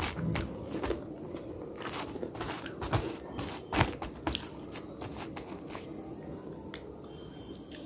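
Someone biting and crunching pieces of slate: a series of sharp, irregular crunches and snaps, more frequent in the first half and sparser towards the end.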